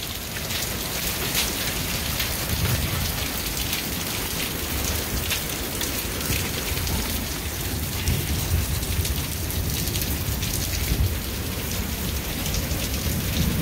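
Heavy rain falling steadily in a thunderstorm and hitting parked cars and pavement, with many sharp ticks and a steady low rumble underneath.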